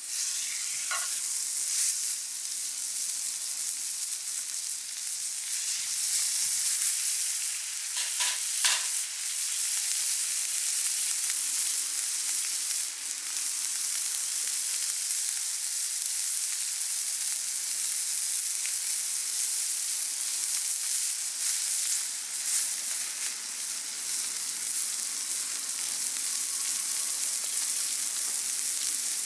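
Steak sizzling over an open wood fire, a steady hissing fry with a few sharper pops about a second in and again around eight to nine seconds in.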